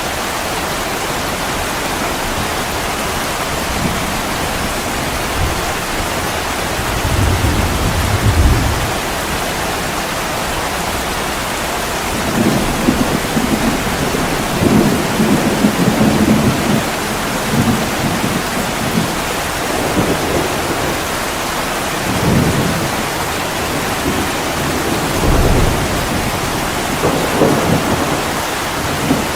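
Steady heavy rain falling, with low rolls of thunder rumbling about seven seconds in and again through much of the middle and later part.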